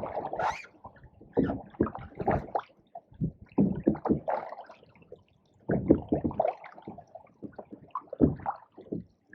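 Canoe paddling: water gurgling and sloshing in short, irregular bursts as the paddle dips and pulls, with brief pauses between strokes.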